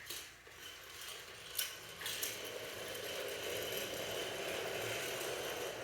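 A few sharp clicks, then about two seconds in a battery-powered toy train's small motor starts and runs with a steady whir.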